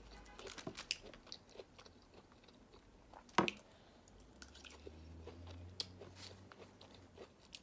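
Quiet chewing and mouth sounds of a person eating, with scattered soft clicks and one sharp click about three and a half seconds in, as a forkful of green beans goes into the mouth.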